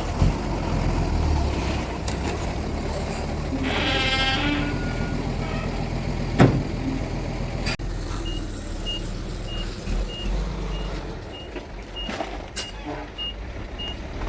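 Bulldozer's diesel engine running steadily with a low rumble, with a few sharp knocks. About four seconds in a short high pitched call sounds for about a second, and from about eight seconds on a reversing alarm beeps regularly, two or three beeps a second.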